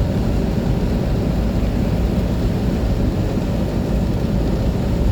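Car driving on a wet road: a steady low rumble of engine and tyre noise.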